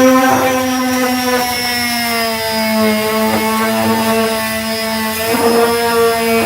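Electric disc sander with a 240-grit disc running on body filler: a steady motor whine that shifts slightly in pitch, with a few short scratchy bursts as the disc bites.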